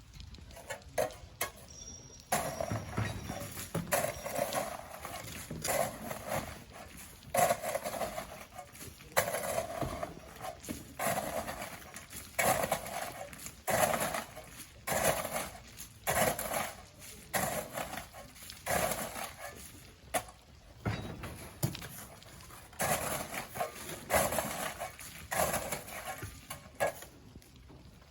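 Shovels scooping sand and throwing it into a truck bed by hand: a rhythmic series of scrapes and thuds, roughly one a second.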